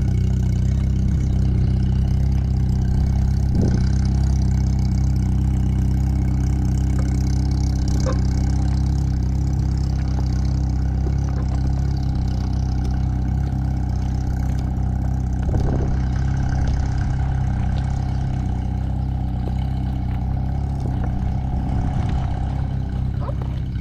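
An engine idling steadily at a constant pitch, with a few light clicks.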